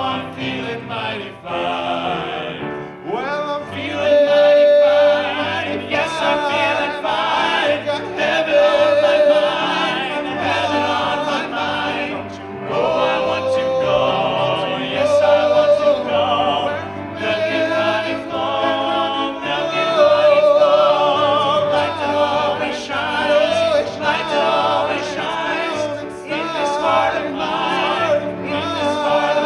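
Gospel vocal group singing in harmony over accompaniment, the voices held on long notes with wavering vibrato above a bass line that moves in steps.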